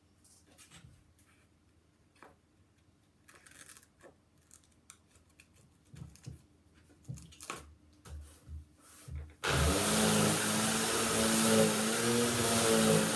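Faint scattered scraping and tapping, then about three-quarters of the way through a vacuum cleaner is switched on and its motor runs steadily and loudly.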